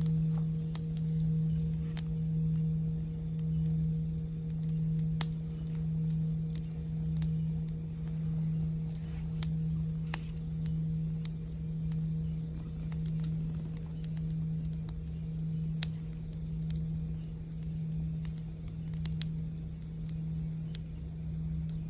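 A singing bowl's low ringing tone, held steady and swelling and fading in loudness a little more than once a second. Campfire crackles and scattered pops sound alongside it.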